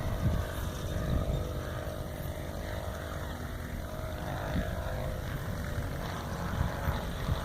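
Saito 125A four-stroke glow engine of a model P-51 R/C airplane running in flight, its pitch shifting a little about halfway through.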